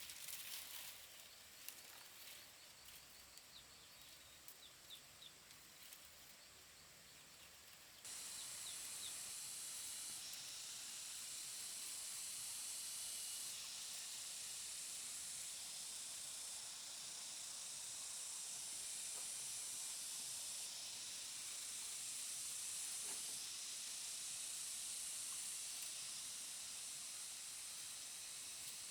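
A chorus of cicadas makes a steady high hiss. It starts suddenly about eight seconds in and swells and eases in steps. Before it come a few short bird chirps and some light knocks.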